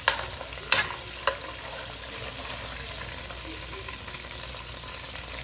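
Pork ribs sizzling steadily in a frying pan on the stove, with three sharp knocks in the first second and a half.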